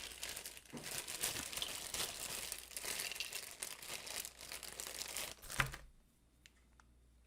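Plastic parts bag crinkling and rustling as it is rummaged through, with a sharp click about five and a half seconds in; the crinkling stops soon after.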